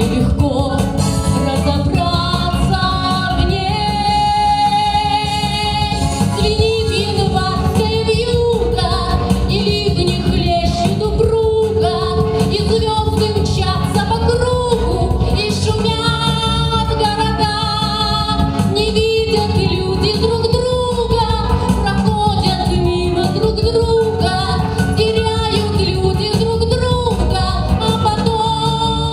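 A woman singing a song over instrumental accompaniment, with vibrato on long held notes.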